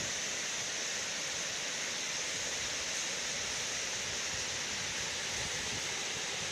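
Waterfall and rapids, water rushing steadily over smooth rocks as an unbroken hiss-like roar.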